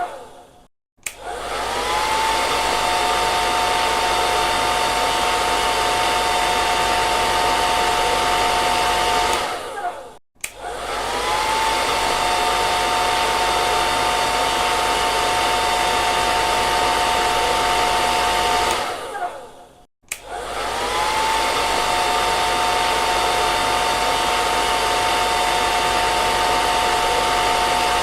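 Hair dryer blowing steadily, its motor giving a high whine over the rush of air. Twice it dies away to a moment of silence and starts again, the whine rising as the motor spins back up.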